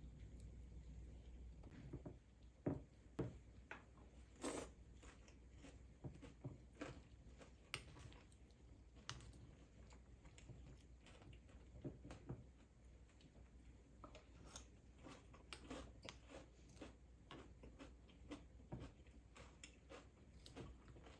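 Faint, irregular small clicks and taps over a low, steady room hum, like light handling of small objects in a quiet room.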